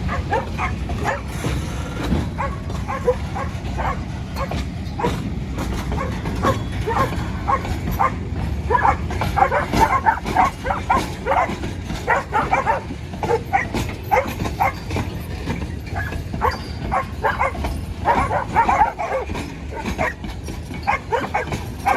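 Several dogs barking and yipping over and over, several calls a second, busiest in the second half, over a steady low rumble.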